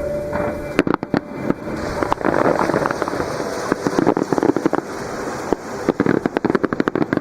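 Fireworks bursting: a few sharp separate bangs about a second in, then a run of rapid crackling reports, densest near the end.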